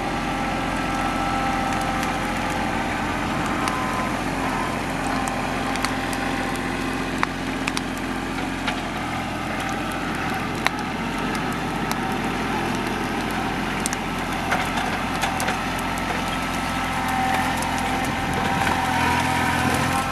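TYM compact tractor's diesel engine running steadily, with scattered sharp crackles and pops from the burning timber pile. The engine grows a little louder near the end.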